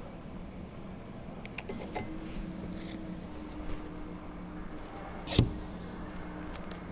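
Plastic shrink wrap being pulled and cut off a yacht: scattered crackles and clicks, with one sharp loud snap about five seconds in, over a steady low hum.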